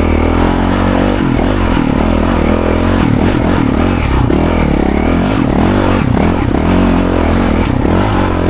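Dirt bike engine running hard under load, its pitch rising and falling as the throttle is worked.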